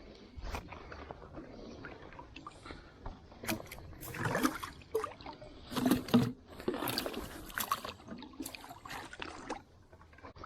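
River water sloshing and splashing around a wader's legs, in irregular bursts that are loudest in the middle.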